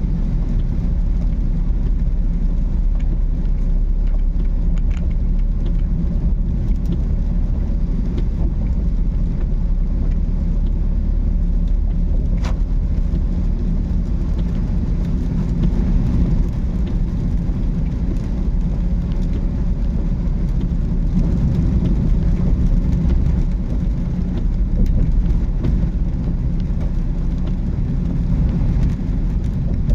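Car driving: steady low rumble of engine and tyres on the road, with a single faint click about twelve seconds in.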